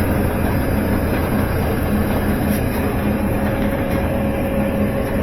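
GE electric clothes dryer running on test: a steady drone of the drive motor and blower fan with the drum turning on its new belt. It runs but does not heat, pointing to a heating-element fault.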